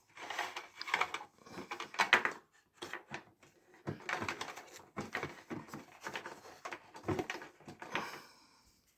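Irregular rustling, scraping and light knocks of a 12-volt car coffee maker and its box being handled, with a brief lull about three seconds in.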